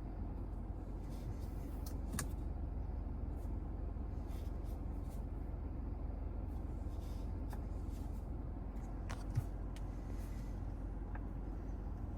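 2025 Mazda CX-5 being driven: a steady low rumble of its naturally aspirated 2.5-litre petrol engine and tyre noise, with a few faint clicks and a brief low knock about nine seconds in.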